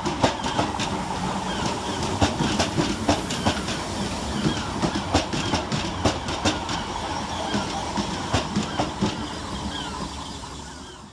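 Southern electric multiple-unit train running through the station, wheels clicking over rail joints and points in a steady rattle, fading away near the end.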